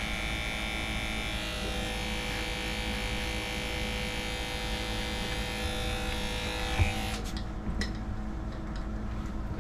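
Large electric dog grooming clipper running with a steady hum while trimming the fur on a puppy's paws. It cuts off about seven seconds in, followed by a few light clicks.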